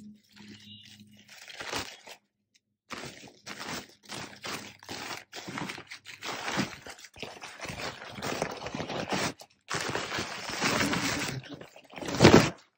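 Packaging of a boxed ceiling fan being opened and handled: irregular crunching, scraping and crinkling, with the loudest rustle near the end.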